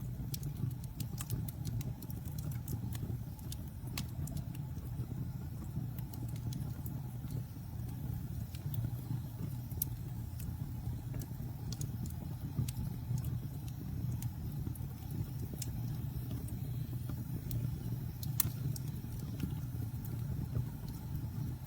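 Campfire burning: wood crackling with irregular sharp pops and snaps over a steady low rumble.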